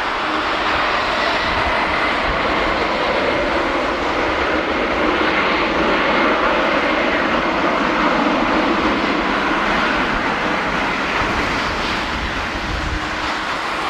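Boeing 767-300ER's twin Pratt & Whitney PW4000 turbofans running at takeoff power: a loud, steady jet roar with a faint high whine, swelling slightly midway.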